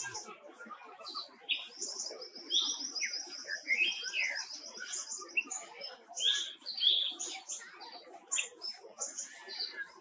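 Several songbirds chirping and whistling. A rapid high trill runs from about two to five and a half seconds in, among shorter chirps.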